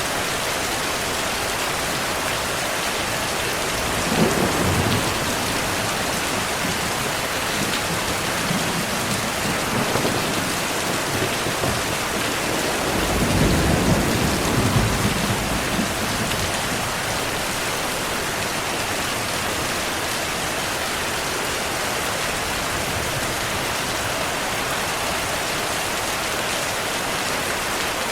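Steady heavy rain with thunder rumbling twice: a short rumble about four seconds in, then a longer, louder one around the middle.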